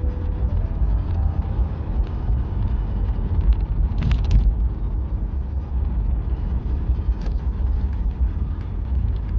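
Car driving on a road, a steady low rumble of road and engine noise, with a short hiss about four seconds in.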